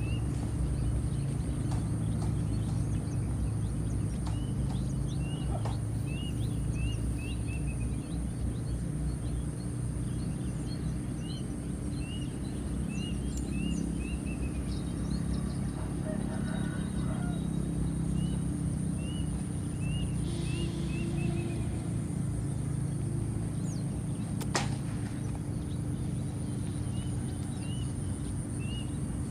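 Outdoor ambience with a bird calling in repeated quick runs of short, falling chirps, over a steady low rumble and a thin high steady whine. One sharp click comes near the end.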